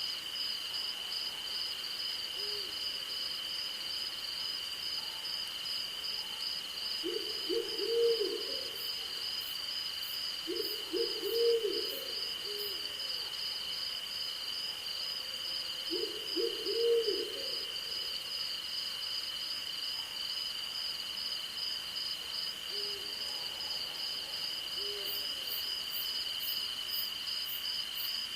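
Night chorus of crickets and other insects: one steady high trill with a faster pulsing trill above it. An owl hoots over it in three short bouts, each a quick run of low notes, spread through the first two-thirds.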